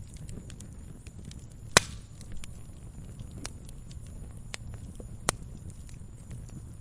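Fire burning in a fireplace: a steady low rumble with frequent small crackles, and two loud sharp pops, one a little under two seconds in and a second, softer one a little past five seconds.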